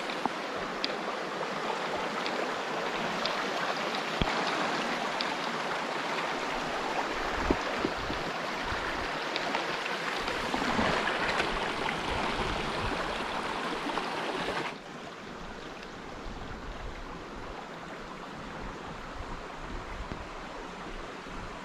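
Stream water rushing over rocks in a steady wash, with a few sharp ticks in the first seconds; about two-thirds of the way through it suddenly drops to a quieter, duller rush.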